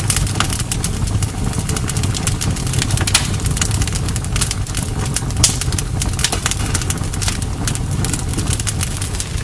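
Campfire burning: a steady low rumble of the flames with frequent, irregular sharp crackles and pops from the burning wood, one louder pop about halfway through.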